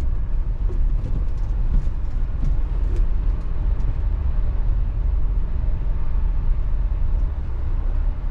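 VW Transporter T6.1 camper van driving, a steady low rumble of engine and road noise with a few faint light ticks.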